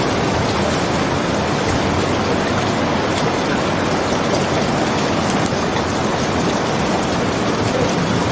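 Steady rain, an even unbroken hiss with faint scattered ticks.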